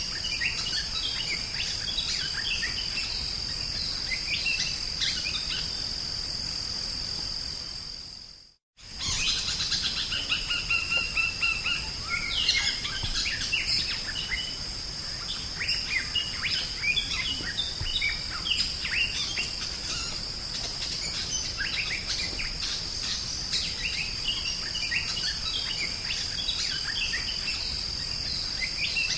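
Drongo singing a fast, varied string of chirps and whistles over a steady high-pitched drone. The sound cuts out completely for a moment about eight seconds in, then the song resumes.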